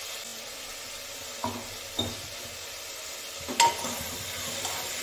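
Potato and jackfruit pieces sizzling steadily in hot mustard oil in a metal pot while a steel spoon stirs them. The spoon knocks against the pot three times, loudest with a short ring near the end.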